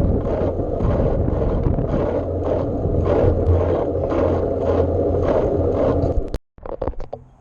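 Riding noise on a bike ride: wind rushing over the microphone with a regular ticking about two or three times a second. The sound cuts off suddenly about six seconds in, followed by a few clicks and knocks of handling.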